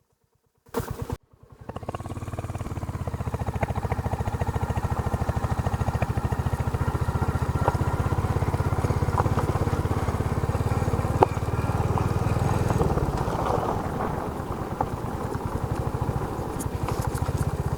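Royal Enfield Hunter 350's single-cylinder engine running with a steady, even thump, cutting in abruptly about a second in after silence. A single sharp click sounds about halfway through.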